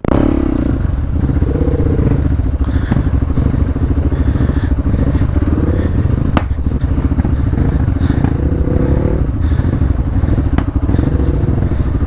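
Off-road motorcycle engine running steadily at low speed while riding over rough ground, with a few sharp knocks along the way.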